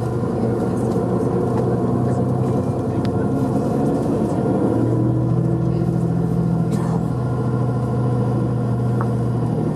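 Vehicle engine running steadily as the vehicle drives, with its hum shifting in pitch about four and a half seconds in.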